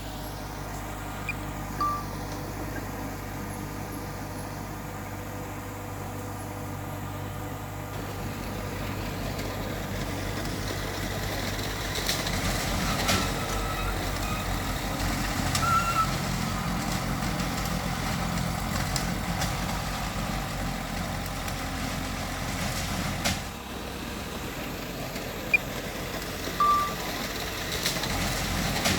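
Heavy diesel earthmoving machinery running steadily, its engine note building from about eight seconds in, with a few short high chirps now and then.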